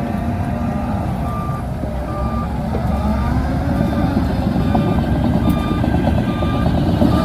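Shantui DH17C2 bulldozer engine running under load, with its reversing alarm beeping at a steady rhythm from about a second in as the machine backs up.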